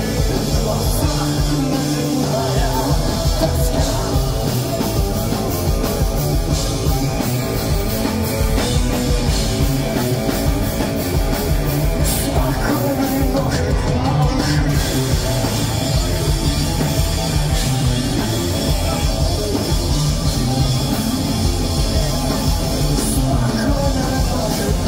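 Live punk rock band playing loud: distorted electric guitars, bass and a drum kit, recorded from among the crowd.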